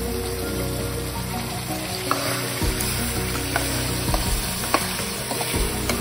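Food sizzling as it fries in a pan, a steady hiss with a few sharp clicks.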